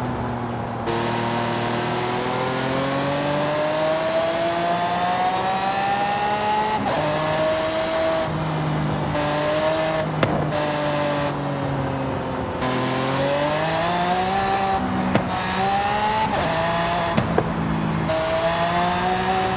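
Mercedes-AMG GT 4-Door Coupé engine pulling hard, its pitch climbing steadily and dropping back at each of several upshifts. A few sharp cracks are heard along the way.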